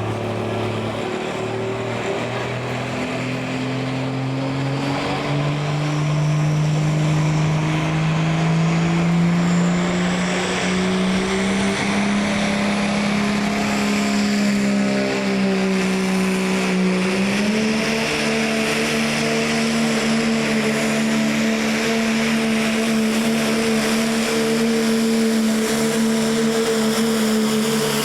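Diesel engine of a pulling vehicle running hard under load: its pitch climbs steadily for about twelve seconds, sags briefly, then jumps back up and holds high and steady.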